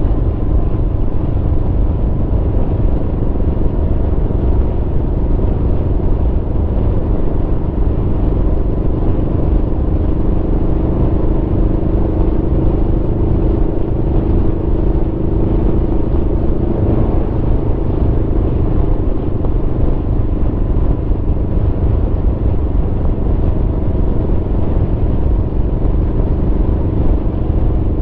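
Aprilia Tuono V4 motorcycle's V4 engine running at a steady, even pitch while riding, over a heavy low rumble.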